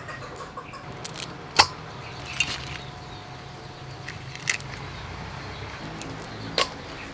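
A handful of sharp, separate clicks from kitchen utensils during food preparation, irregularly spaced over several seconds, over a faint steady background.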